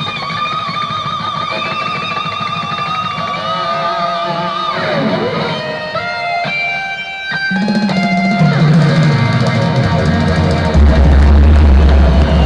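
Rock music led by an electric guitar solo of long bent notes with wavering vibrato; bass and drums come in heavily about two-thirds of the way through.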